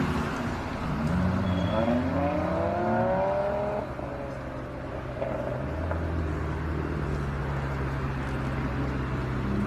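Ferrari F8 Tributo's twin-turbo V8 exhaust climbing in pitch as the car accelerates for a few seconds. It then drops back to a steady low drone.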